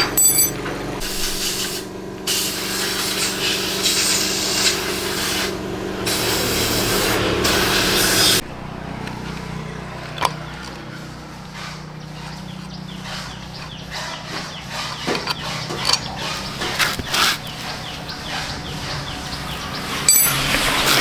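Motorcycle repair work: a loud hiss over a steady low hum for the first eight seconds or so, which stops suddenly. Quieter scraping and clicking of tools follows.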